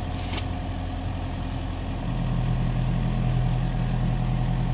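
Kubota excavator's diesel engine running steadily; about two seconds in its note changes and gets a little louder, as the engine takes up the load. A single sharp click shortly after the start.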